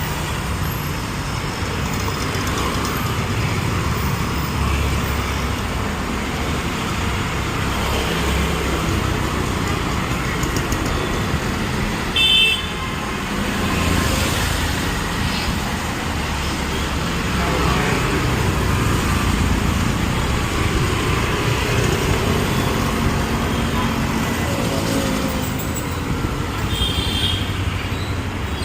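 Busy city street traffic: vehicles running past with a steady rumble, and short horn toots about twelve seconds in and again near the end.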